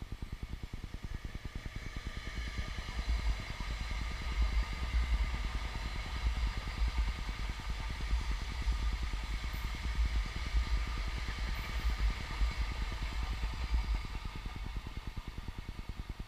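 CSX oil train rolling past, its wheels clattering steadily over the rails. It grows louder a couple of seconds in and eases off again near the end.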